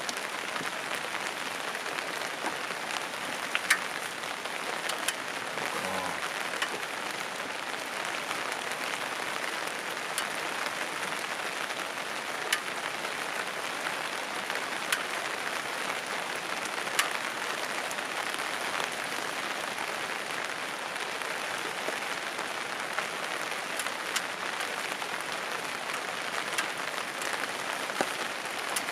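Steady rain falling, with scattered sharper drops striking close by every second or two.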